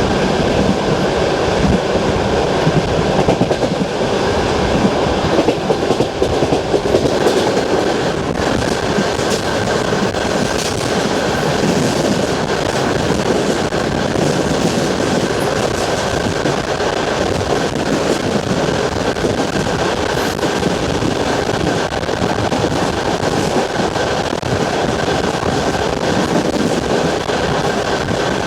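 Wheels of a long-distance passenger train clacking rhythmically over the rail joints of jointed track, with the steady rolling noise of the carriage, heard from aboard the train.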